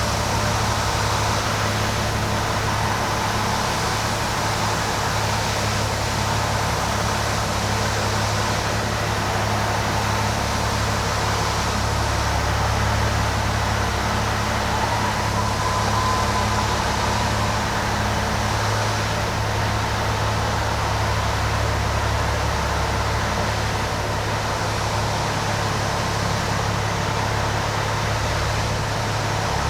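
Peterbilt 379 diesel truck idling steadily, a constant low drone under an even hiss.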